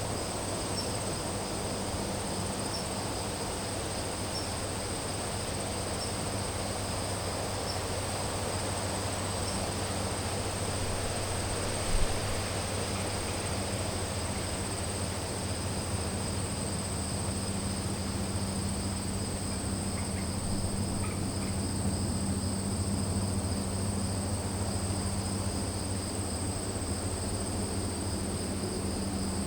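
Crickets singing in a continuous, steady high-pitched chorus, over a low steady hum. A single short thump about twelve seconds in.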